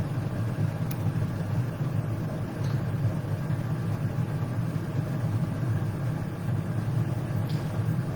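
Steady low motor hum with no speech, and two faint ticks.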